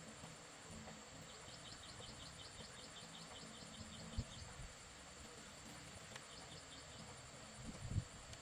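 Faint rapid chirping, about six high chirps a second, in a run of a few seconds and a shorter one later, over a steady background hiss, with two soft thumps.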